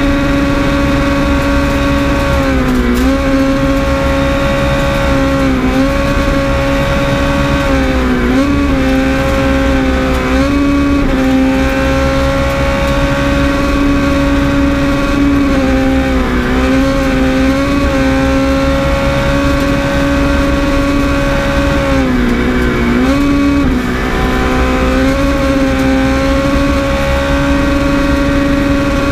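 Skoda Fabia S2000's four-cylinder engine heard from inside the cabin, holding steady revs with brief dips in pitch every few seconds, over a low rumble of tyres on gravel.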